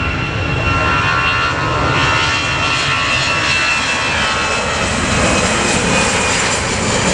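Airbus A320 jet airliner departing, its engines heard as a loud, steady jet rumble with high whining tones over it.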